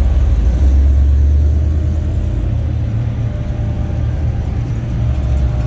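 Classic car's engine rumbling low as it rolls slowly past, loudest about a second in and then easing off a little.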